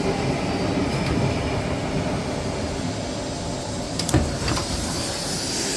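Suburban electric train running, heard from on board: a steady rumble that eases slightly, with two sharp clicks about four seconds in.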